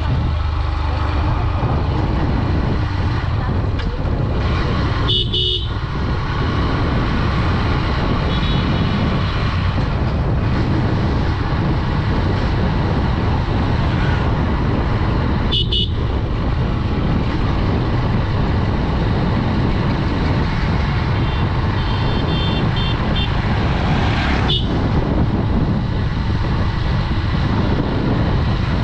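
Honda Dream 110's 110cc single-cylinder engine running steadily under way, with road noise. Short horn beeps sound about five seconds in and again about sixteen seconds in, with a few fainter beeps later.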